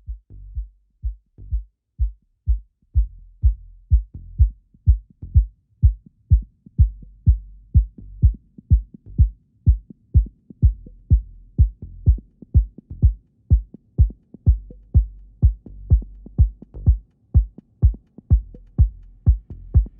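Techno track intro: a drum-machine kick drum beats steadily at about two a second over a sustained low bass line.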